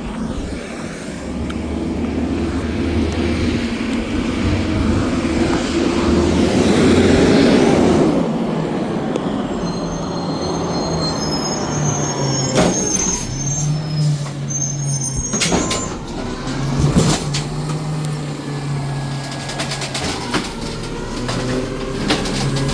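Garbage truck's engine building up over the first several seconds, then running steadily. A high squeal and a few sharp knocks come about halfway through.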